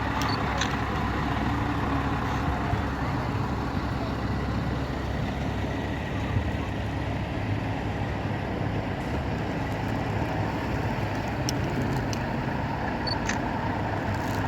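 Truck diesel engine idling steadily, a low even rumble without revving.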